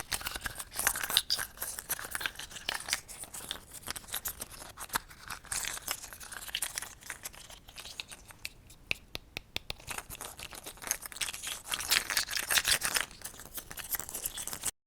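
Close-miked ASMR crackling and crinkling: dense, quick scratchy clicks, quieter for a couple of seconds midway, then busy again before cutting off abruptly near the end.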